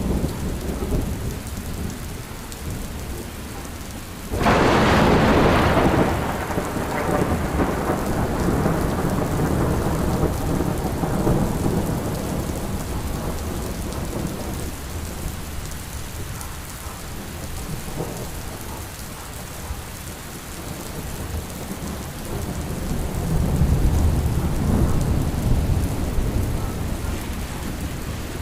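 Steady rain with thunder: a sharp thunderclap about four seconds in that fades into a long low rumble, and a second rolling rumble near the end.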